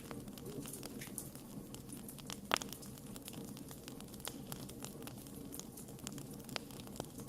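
Wood fire crackling: irregular small pops throughout, with one sharper pop about two and a half seconds in, over a low steady rumble.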